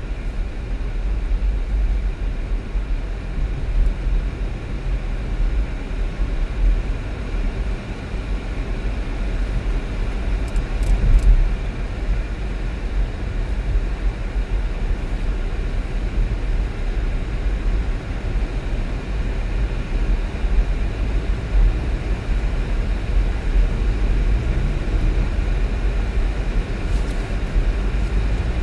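A car being driven: a steady, low rumble of engine and road noise.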